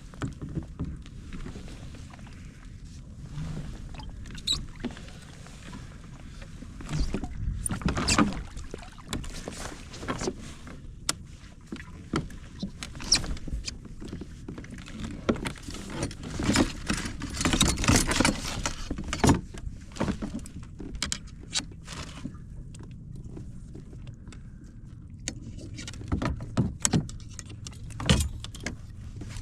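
Irregular knocks, rattles and splashy bursts of handling on a fishing kayak as a California halibut is brought aboard, busiest about halfway through.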